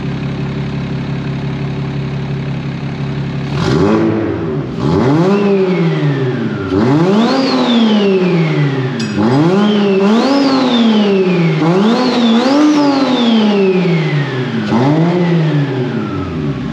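BMW 135i's twin-turbo straight-six idling steadily, then revved in a series of blips about four seconds in, its pitch rising and falling with each, before dropping back toward idle near the end. The engine is on its first runs after a six-month rebuild.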